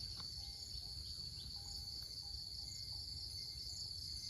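Steady, high-pitched chorus of insects such as crickets, with faint short notes repeating lower down and a low rumble under it.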